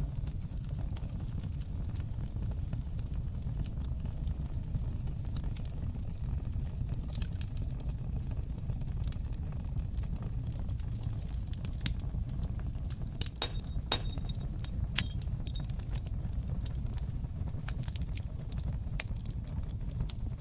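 Wood fire crackling in a stone fireplace: scattered sharp pops and snaps over a steady low rumble of the flames, with the loudest snap about three-quarters of the way through.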